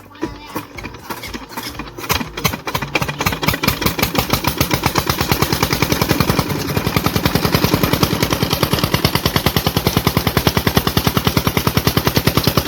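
Old Petter stationary engine at a tubewell starting up: its firing beats come slowly at first, quicken over the first few seconds, then settle into a fast, steady, loud knocking rhythm as the engine runs.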